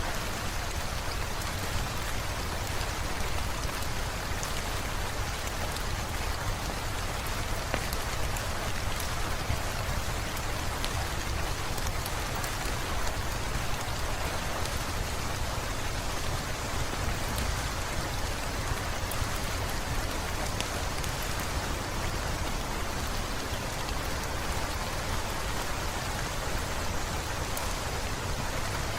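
Heavy rain falling steadily: a dense, even hiss with a deep low rumble underneath, sprinkled with faint sharp ticks.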